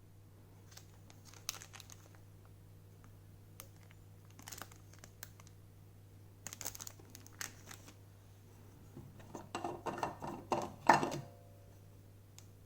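Hands handling small plastic items, crinkling and clicking: scattered light rustles and clicks, then a louder, denser flurry of rustling and clicking about ten seconds in. A steady low electrical hum runs underneath.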